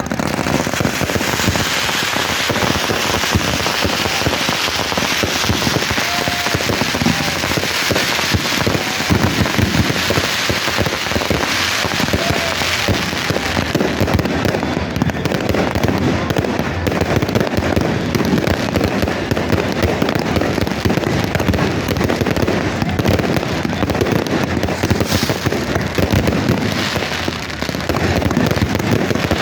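Fireworks going off in a dense, continuous barrage: rapid crackling and popping of firecrackers, with no break for the whole stretch.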